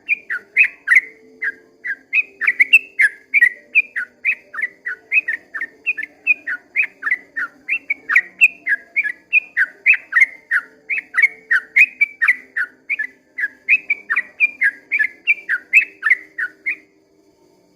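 Yellow-vented bulbul singing a long, unbroken run of short, sweeping whistled notes, several a second, which stops about a second before the end.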